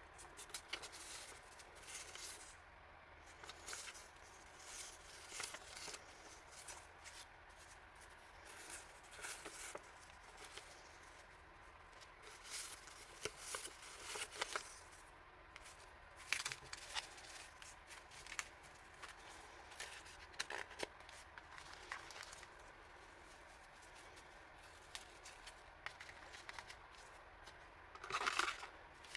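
Packaging and paper items being handled and unpacked: soft, intermittent rustling and crinkling with small clicks, a little louder near the end.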